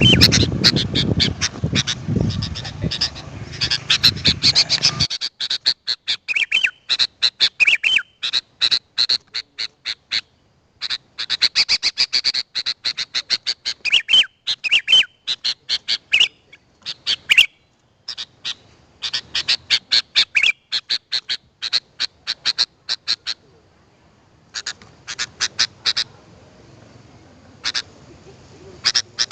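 Sooty-headed bulbul (kutilang) calling: rapid runs of sharp, high chirps with a few short whistled notes mixed in, coming in bursts separated by brief pauses.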